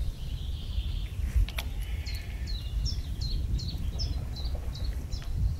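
A songbird singing a run of about ten short, sharp notes, each falling in pitch, repeated about three a second from about two seconds in.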